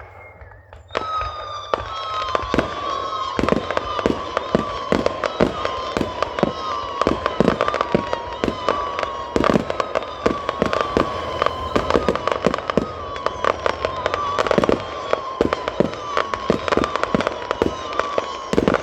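A fireworks display going off: a dense run of bangs and pops from about a second in onward. Through it runs a high, slightly falling tone that repeats about once a second.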